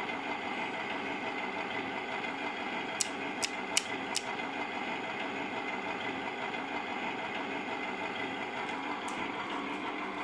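Simulated truck diesel engine idling steadily, played by the engine-sound unit of a WPL B36 Ural RC model truck. Four sharp clicks come about three to four seconds in.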